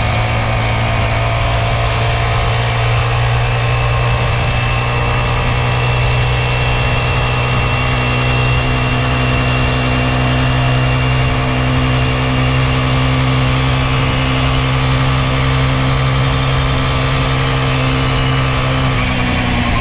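A small kids' dirt bike engine running at a steady speed while ridden. Near the end its pitch drops as the bike slows.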